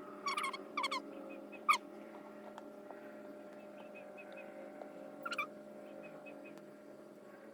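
Small birds chirping in short, sharp calls, several in the first two seconds and one more about five seconds in, with faint softer chirps between, over a steady low hum.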